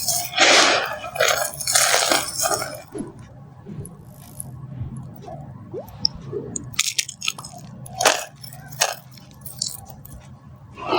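Dry soap being crushed and crumbling: two loud crunches in the first couple of seconds, then quieter crackling with a few sharp snaps later on.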